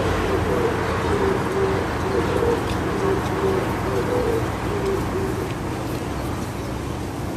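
A dove cooing: a run of short, low notes repeated evenly at two alternating pitches, fading out about five seconds in, over a steady low background rumble.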